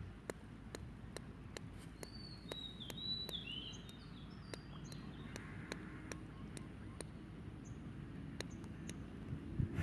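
Quiet outdoor ambience: a bird gives a few short, falling chirps a couple of seconds in, over an even ticking of about three clicks a second and a low background rumble.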